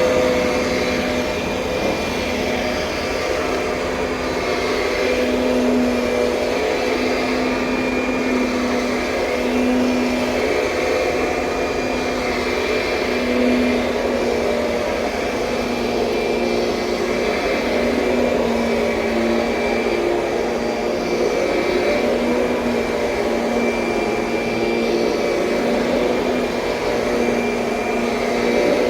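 Kirby Sentria upright vacuum cleaner running steadily, its motor tone wavering slightly in strength.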